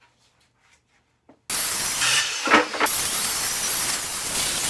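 About a second and a half of near silence, then a power saw cutting plywood starts abruptly: a loud, steady, hissing noise with a couple of brief louder moments.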